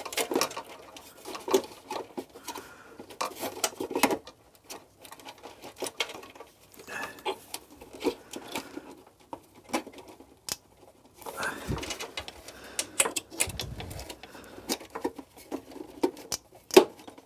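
Plastic airbox of a Suzuki K10P being worked free of the motorcycle frame. It gives a string of irregular clicks, knocks and rubbing scrapes.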